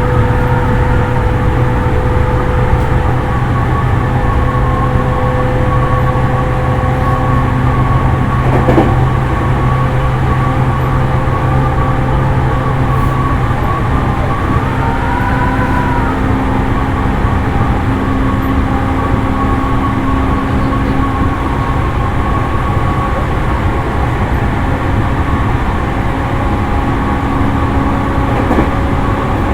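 Running sound heard inside the motor car of a JR East E231 series electric train: a steady rumble of wheels on rail with several steady motor and inverter tones over it. There is a single knock about nine seconds in and a short tone that rises and falls around fifteen seconds in.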